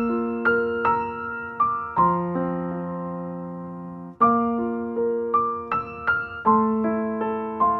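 Background music: a solo piano (electric piano) playing a gentle melody of struck notes that ring and fade, with a short pause about four seconds in.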